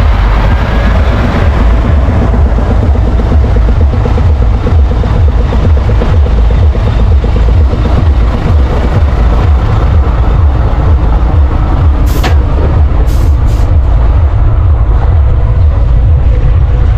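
Heavy truck's diesel engine running steady and loud, with a deep pulsing rumble. A brief high hiss cuts in about twelve seconds in, and two more follow a second later.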